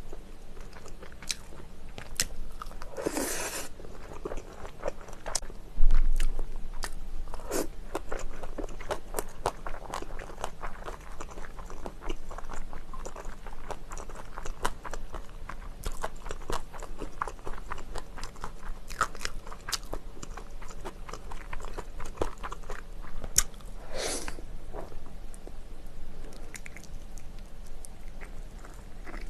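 Close-miked chewing and biting of spicy chicken: many wet mouth clicks and crunches. A sharp bump sounds about six seconds in.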